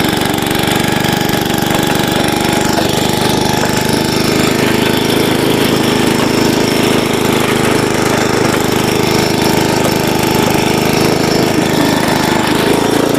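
Engine of a Troy-Bilt Horse rear-tine rototiller running steadily under load while its tines churn garden soil. The engine note shifts right at the end.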